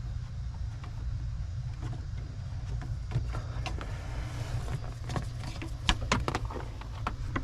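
Plastic vacuum tubing being handled and fed through a hole under a car's dashboard: scattered light clicks and rustles, busier in the second half, over a steady low hum.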